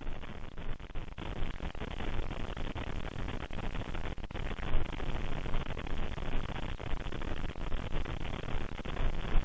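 Steady hiss and static of a low-quality audio recording, with a few faint clicks scattered through it.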